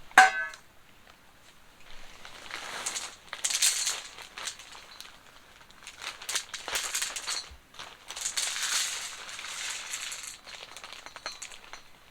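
A sharp, short ringing clink at the very start, then irregular bursts of rustling and crinkling as something is handled.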